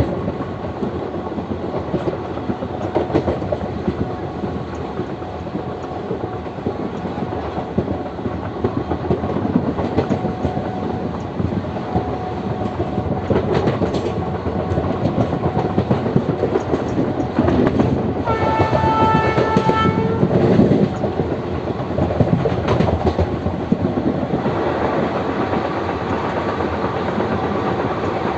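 Express train running at high speed, a continuous rumble of wheels on track with irregular clicks over the rail joints. About two-thirds of the way through, the WAG-9 electric locomotive's horn sounds once for about two seconds.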